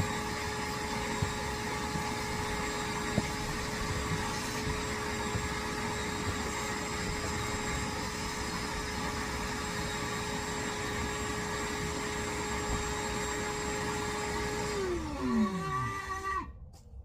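Vacuum cleaner running steadily with a high motor whine, then switched off about fifteen seconds in, its pitch falling as the motor spins down.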